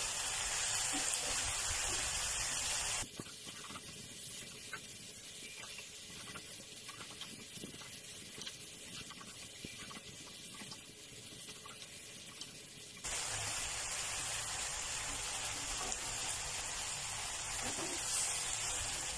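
Chicken breast, tomato and cucumber sizzling in a nonstick pan as they are stir-fried with a spatula. About three seconds in the sizzle drops suddenly to a quieter hiss with light clicks, and it comes back up about two-thirds of the way through.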